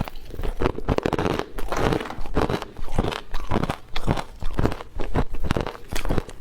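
Irregular, repeated crunching and crackling, several strokes a second.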